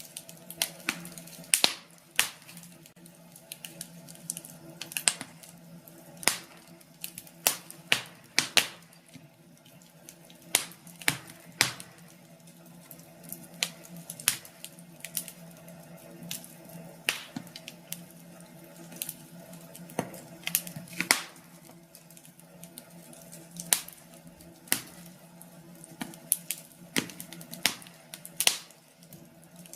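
Wood fire crackling in a fireplace: irregular sharp pops and snaps, about one or two a second, over a faint steady low hum.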